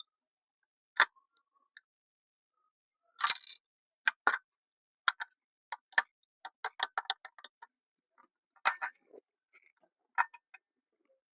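Hand tools clicking and clinking against engine parts: scattered sharp knocks, with a quick run of light clicks in the middle.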